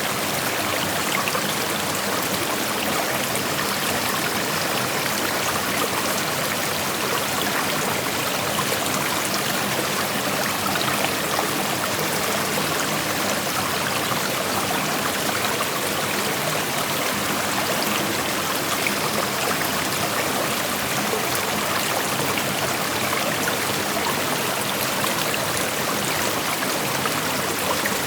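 Shallow creek flowing steadily over rocks, an even rushing with small splashes and trickles.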